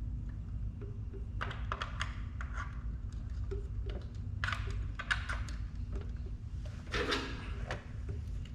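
Handling noise from work on boat batteries: three clusters of small clicks and knocks over a steady low rumble.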